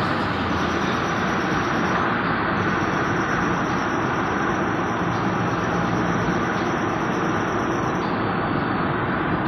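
Brakes of an Audi A4 B7 squealing: a thin, steady, high-pitched squeal that breaks off briefly about two seconds in and fades out about a second before the end, over a steady rush of road noise.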